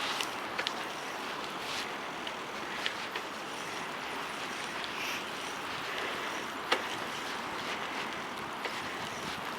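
Steady rushing noise of strong wind and bicycle tyres rolling on a slippery snowy road, with a few sharp clicks.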